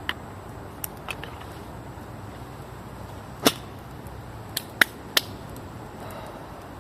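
Campfire of birch firewood crackling: about seven sharp, scattered pops, the loudest about three and a half and five seconds in, over a faint steady hiss.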